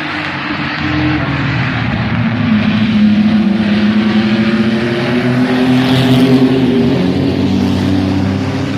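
A pack of mini trucks racing: several engines running at once, their pitches rising and falling as the trucks pass, growing louder about a second in.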